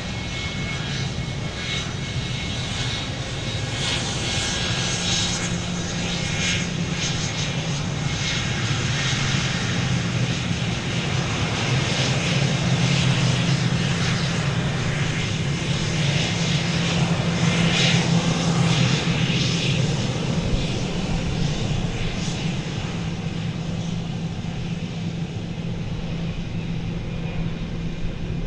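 Airplane engines running, a steady noise with a deep low hum that grows louder toward the middle and then eases off.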